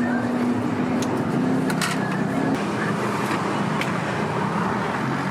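Busy city street noise: steady traffic with a low engine hum, and a few light clicks and clinks scattered through it.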